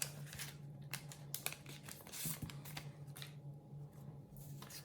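Faint rustling and crinkling of sticker packets and stickers being handled, with a few small clicks, over a steady low hum.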